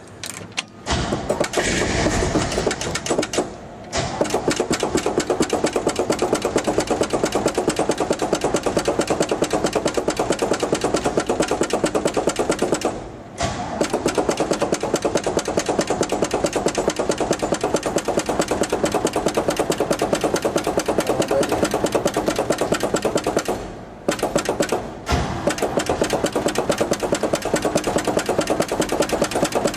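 A 1970 GMC pickup's engine is cold-started with the gas pedal pumped, then runs with a fast, even pulsing through its new exhaust. The sound sags briefly three times.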